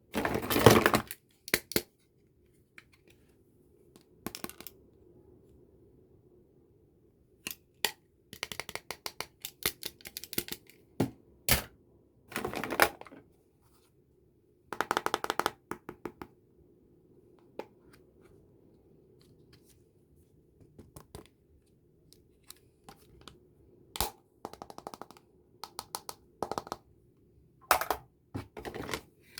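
Intermittent clicks, taps and short bursts of rustling as plastic makeup cases and packaging are handled and opened, with quiet gaps between.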